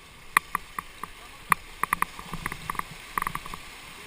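Paddles knocking against a kayak or raft on a river: about a dozen sharp, irregular clacks, some in quick pairs, over a steady rush of water.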